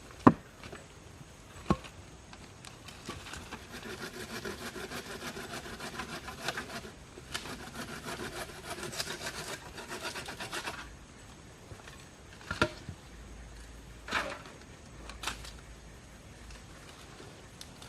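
Wood being sawn by hand, a run of rasping back-and-forth strokes lasting about eight seconds. A couple of sharp knocks come before it and a few after.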